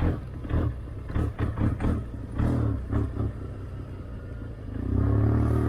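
Motorcycle engine running on the move, with irregular short thumps over it in the first part; the engine note grows louder and steadier near the end.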